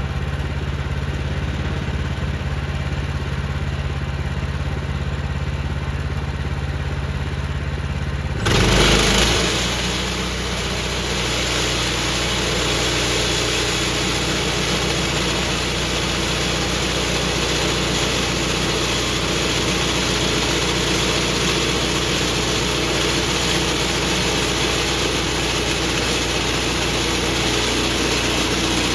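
Woodland Mills HM126 portable bandsaw mill's gasoline engine idling, then throttled up about eight and a half seconds in with a brief surge. After that the engine and spinning band blade run steadily at speed, louder and with more hiss than at idle.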